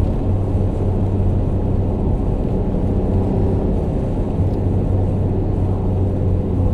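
Alfa Romeo GTV's 3.0-litre Busso V6 engine running at a steady pitch, a constant low hum with no change in revs.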